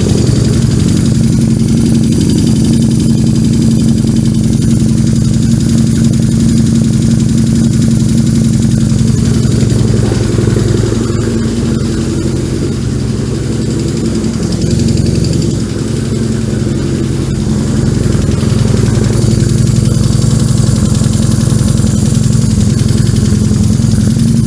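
1994 BMW R1100GS flat-twin boxer engine idling steadily, run for a few minutes on fresh oil and a new filter to check for leaks. It drops slightly in level for several seconds midway, then returns to its earlier level.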